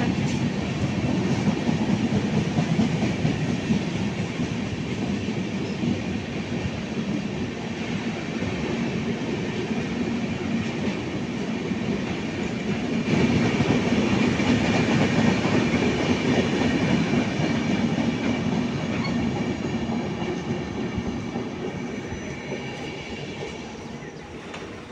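Indian Railways passenger train of LHB coaches rolling past: a steady rumble of wheels on rail with clickety-clack. About halfway through, high thin squealing tones join in, and the sound fades over the last few seconds as the train draws away.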